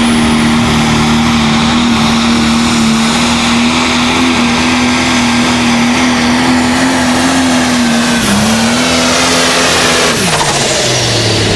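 Pulling tractor's engine running flat out with a steady high drone and a thin whine above it, dipping briefly about eight seconds in, then the revs and whine falling away about ten seconds in as the throttle comes off.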